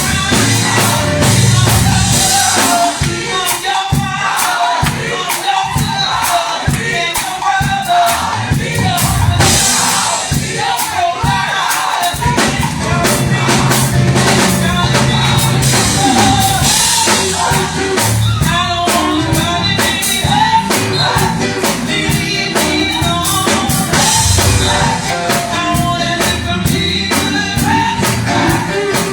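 Gospel choir singing with a live band of drum kit and bass. The bass drops out for several seconds about three seconds in, then comes back.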